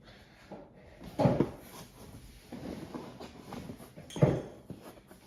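Beer cans and their packing being handled on a table: two dull knocks, about three seconds apart, with rustling in between.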